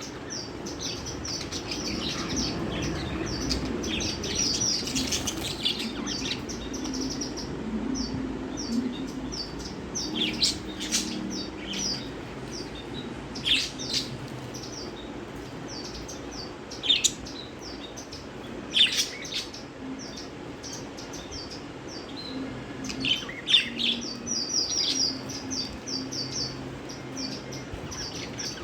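Pet budgerigars chirping and chattering: long runs of short, quick, high chirps, with louder sharp calls breaking in now and then.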